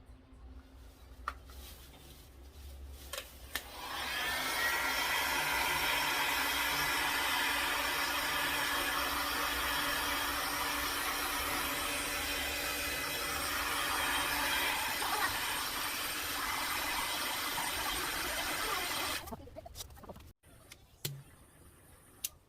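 Handheld hot-air blower switched on about four seconds in, running steadily with a motor-and-fan whine, then switched off near the end. It is typical of blowing poured resin out into wave shapes. A few light clicks and knocks come before it starts and after it stops.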